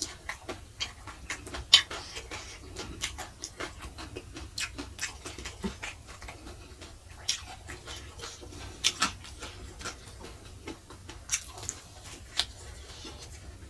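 Close-up eating sounds: chewing and wet mouth smacks on fried spleen in sambal, a string of short, irregular clicks with a louder smack about two seconds in.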